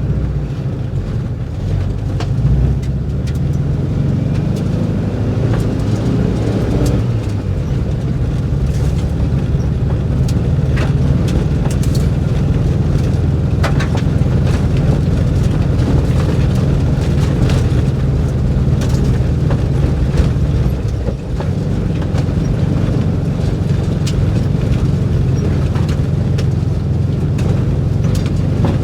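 The air-cooled flat-four engine of a 1958 VW bus running steadily under load on a steep, rocky dirt climb; its note rises for a moment about six seconds in, then settles back. Scattered sharp clicks and knocks come through over the engine.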